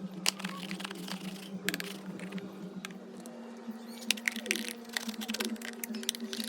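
Irregular clicks and light scraping of small hard objects being handled, over a steady low hum.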